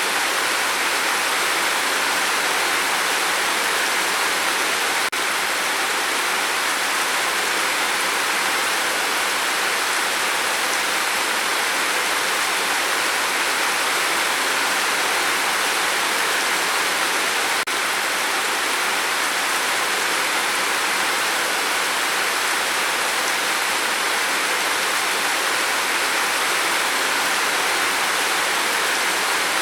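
Steady rain falling, an even, dense hiss with no single drops standing out.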